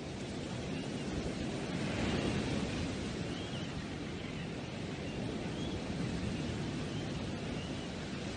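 Steady outdoor rushing noise, with a few faint high chirps every second or two.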